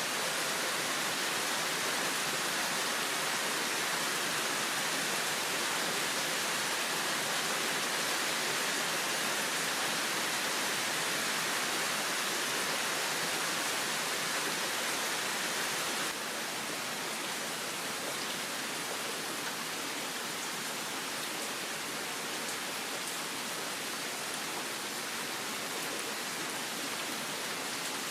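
Heavy rain falling, a steady hiss that drops slightly in level about 16 seconds in.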